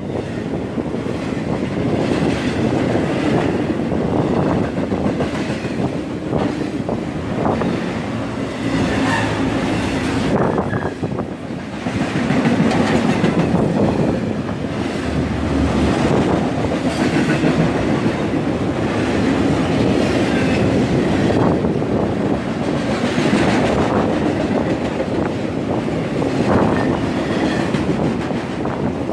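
Intermodal freight train cars rolling past in a steady rumble, with their wheels clacking over the rail joints again and again.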